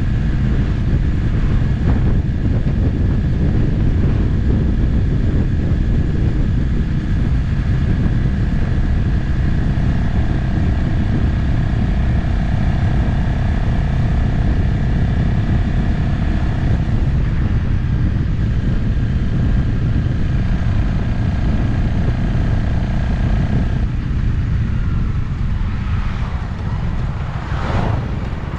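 Motorcycle riding at a steady cruising speed, engine running under a heavy rush of wind and road noise. Near the end the engine note sweeps in pitch and the sound dips as the bike changes speed.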